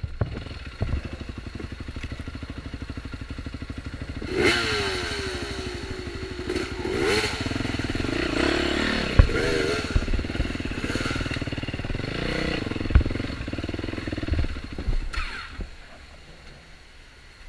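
Off-road motorcycle engine riding a trail, revving up and down repeatedly, with a few sharp knocks and clatter over rough ground. The engine falls away to a low level about fifteen seconds in.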